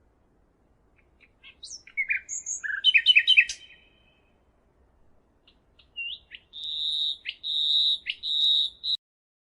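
A songbird singing: a quick jumble of chirps and short trills, then, after a pause, a series of about four held high whistled notes that stop near the end.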